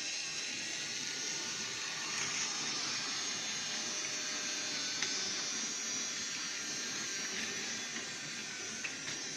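A train running, heard as a steady hiss with faint high tones above it and a single click about halfway through.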